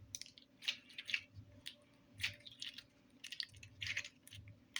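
Slime putty being squeezed and kneaded by hand, giving irregular wet squelches and small clicks as air pockets are pressed out.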